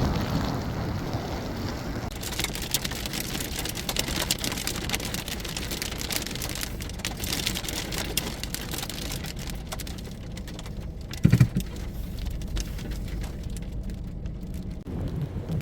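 Snowstorm wind rushing, with blowing snow pelting the microphone in dense small ticks from about two seconds in. A brief low thump comes about eleven seconds in.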